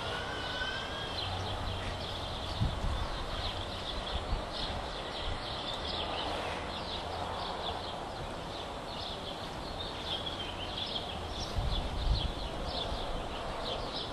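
Small birds chirping repeatedly, with a few short whistled glides, over steady outdoor background noise; a few dull low thumps come through, loudest near the end.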